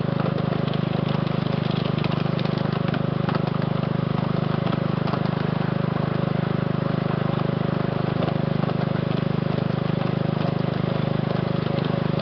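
Engine of a ride-on scale switcher locomotive running steadily, with scattered light clicks and rattles over the top.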